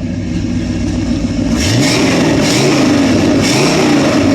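The 1969 GMC pickup's 350 V8 engine with Vortec heads running and being revved. Its pitch rises about a second and a half in, and again later.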